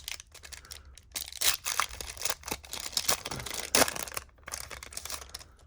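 A trading card pack's wrapper being torn open and crinkled by hand, a run of irregular rustles and sharp crackles, with cards being handled.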